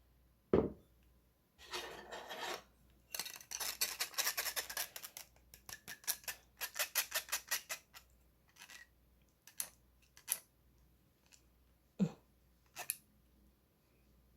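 Kitchen utensil working through beaten egg mixture in a bowl: scraping, then quick, even strokes at about five a second, with scattered clicks and a couple of knocks against the dish.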